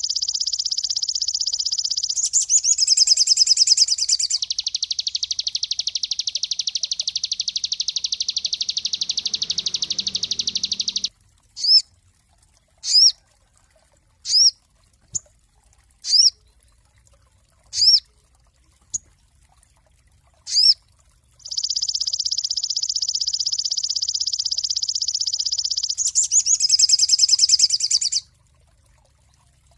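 A sogon songbird singing. It gives a long, fast, high trill, then a string of single sharp down-slurred chirps about a second apart, then another long fast trill near the end.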